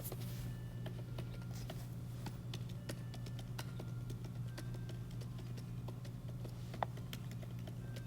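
Scattered light taps and clicks, irregular and quick, typical of fingers working a device while editing, over a steady low hum; one sharper click near the end.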